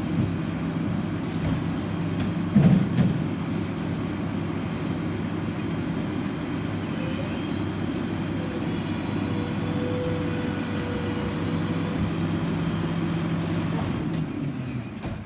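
Garbage truck engine running steadily, with a louder clunk about three seconds in and a faint thin whine in the middle.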